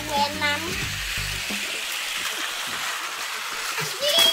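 Battery-powered Tomy Plarail toy trains running on plastic track, a steady rattling buzz of their motors and wheels, over background music. Short high voice-like calls sound at the start and again near the end.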